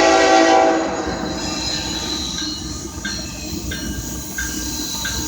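A locomotive horn blast cuts off just under a second in, followed by the steady rumble of the train rolling past, with a high tone repeating about every two-thirds of a second.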